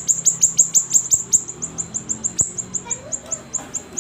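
Siri-siri songbird singing hard: a fast, continuous run of high chirps, each sliding downward, about five or six a second.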